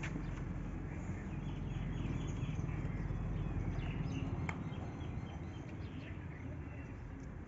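Small birds chirping over a low steady hum, with a single sharp click about four and a half seconds in.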